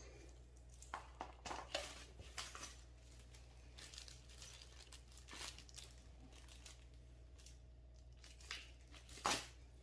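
Plastic packaging crinkling and rustling in short irregular bursts as an air-conditioner accessory is handled, with a louder rustle near the end.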